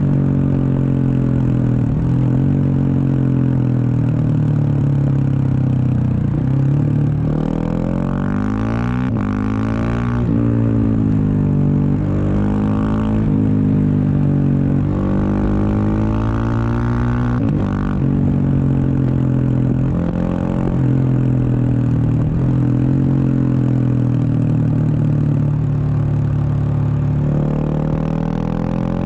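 Husqvarna 701 Supermoto's single-cylinder engine through a Wings exhaust, under way. It holds a steady note for long stretches, and its pitch climbs and drops several times around the middle as the throttle is opened and closed.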